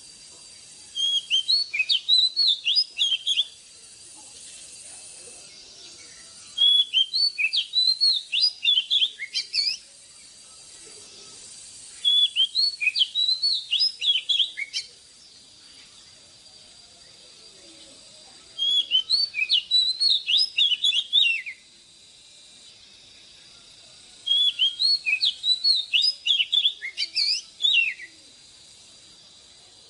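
Oriental magpie-robin singing: five bursts of quick, varied whistled notes, each about three seconds long, repeating at even intervals about every six seconds.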